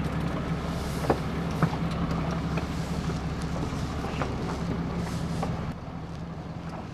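Truck engine running at a steady low speed, with scattered knocks and rattles over it; the sound steps down in level near the end.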